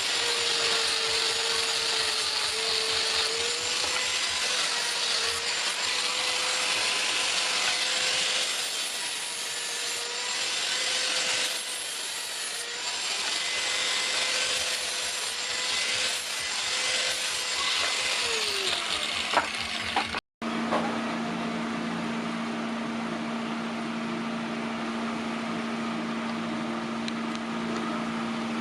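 Electric power tool running with a steady motor whine under harsh cutting or grinding noise. About 19 seconds in it is switched off and its pitch falls as it spins down. After a brief break a steadier, lower hum continues.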